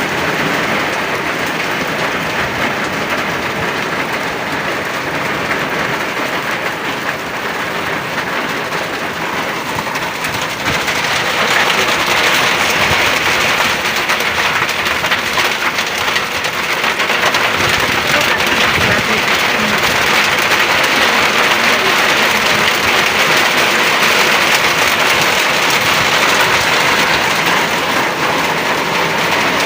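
Heavy rain pouring down in a steady roar, growing louder about a third of the way in.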